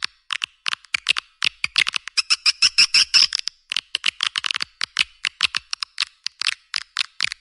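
Edible-nest swiftlet call track: rapid, dry chittering twitters in quick runs of short chirps, several a second. It is the kind of lure call played from swiftlet houses to draw birds in.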